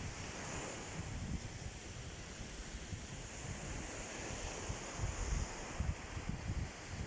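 Baltic Sea surf washing onto a sandy shore as a steady hiss, with wind buffeting the microphone in gusts that grow stronger about five seconds in.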